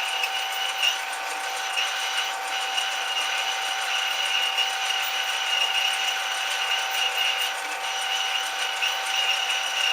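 Metal lathe running, a steady mechanical whine with a few fixed pitches that holds throughout.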